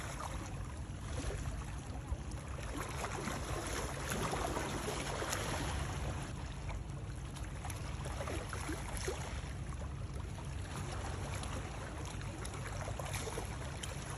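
Running water, a steady rushing wash with small trickles and splashes scattered through it.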